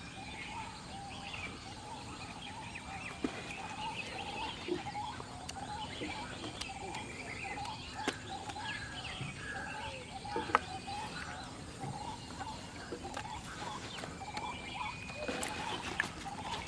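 Many short bird calls repeating over a steady outdoor hiss, with a few sharp knocks.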